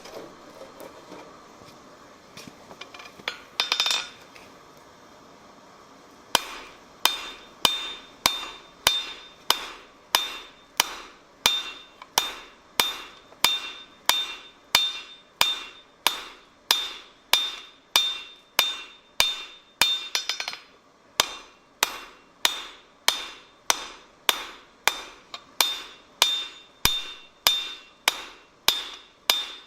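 Blacksmith's hand hammer forging steel on an anvil: a steady run of blows at about one and a half a second, each ringing, starting about six seconds in after a brief scraping sound.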